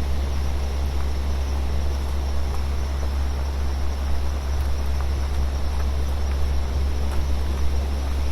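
Steady synthesized brown and pink noise from a VCV Rack modular synth patch: a heavy, constant low rumble under an even hiss, with no change in level. A few faint short ticks sit in the hiss here and there.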